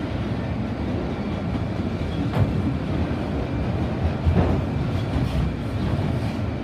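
A freight train's autorack cars rolling past at close range: a steady rumble of steel wheels on the rails, with a couple of sharper clacks about two seconds apart.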